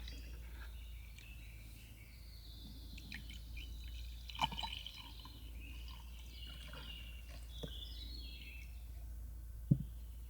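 Small birds chirping, with a sharp knock about four seconds in and a louder low thump near the end.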